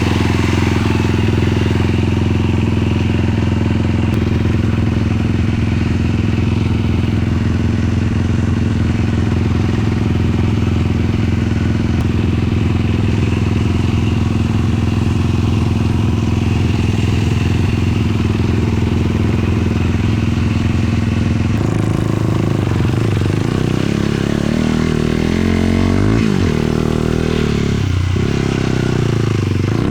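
450cc single-cylinder four-stroke sport ATV engine idling steadily. About two-thirds of the way through it revs and pulls away, its pitch rising and falling and dipping sharply twice near the end.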